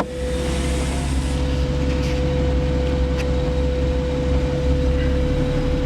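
Porsche Cayman GTS's flat-six engine running at low revs, heard from inside the cabin, with a steady single-pitched electronic tone sounding alongside it.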